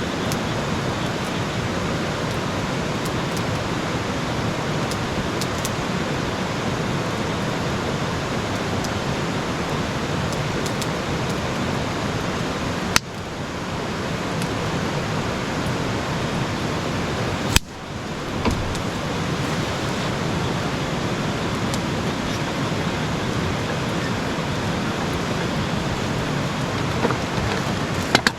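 Steady rushing noise, like rain or wind on the microphone, cut off abruptly and resumed twice partway through.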